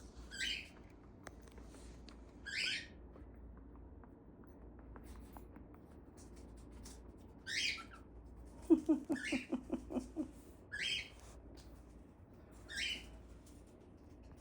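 Pet birds giving short, high calls that fall in pitch, about six spread over several seconds. In the middle comes a quick run of about eight short, lower clucking notes.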